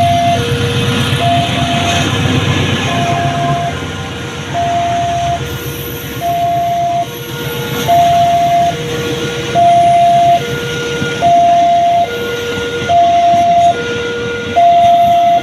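Two-tone electronic warning alarm switching steadily between a high and a low tone, each held a bit under a second. Under it, the low rumble of a train, strongest in the first few seconds, then fading.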